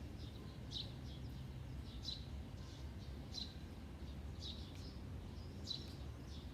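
A bird repeating a short high chirp about every second and a quarter, five times, over a steady low rumble of outdoor background noise.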